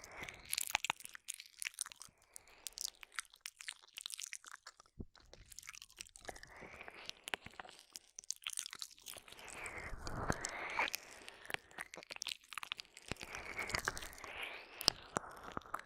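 Close-up ASMR mouth sounds of ear licking: many sharp wet clicks and smacks, with longer swelling stretches about halfway through and near the end.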